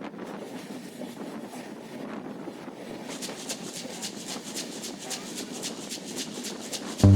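Steady running noise of a moving train with wind buffeting the microphone. From about three seconds in, a faint, fast, even ticking joins it, and loud music cuts in at the very end.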